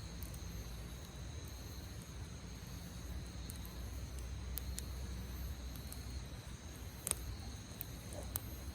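Campfire crackling with scattered sharp pops, the loudest about seven seconds in, over a low rumble. Crickets chirp steadily in the background.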